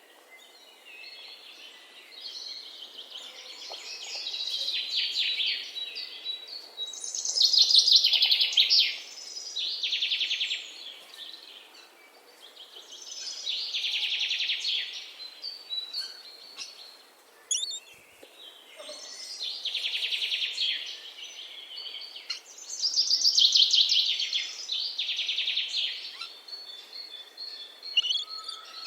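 Songbird singing high-pitched phrases of fast trills, each lasting one to two seconds and repeating every few seconds, with fainter chirps in between.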